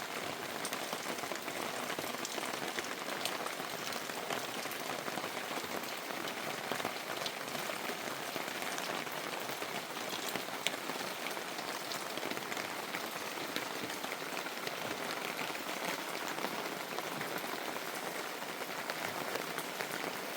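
Steady rain falling, an even hiss with many scattered sharp drop hits.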